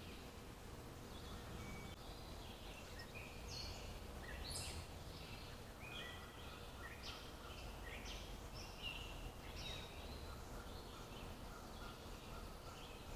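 Several songbirds chirping and calling, short overlapping notes coming in quick succession, over a faint steady background noise.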